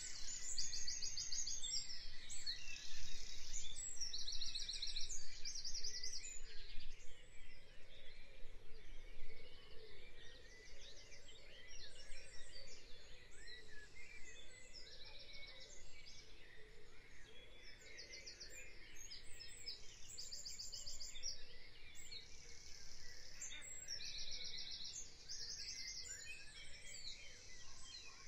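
Birdsong ambience: several small birds chirping and trilling over a low, steady outdoor hiss, with short high trills repeating every second or two.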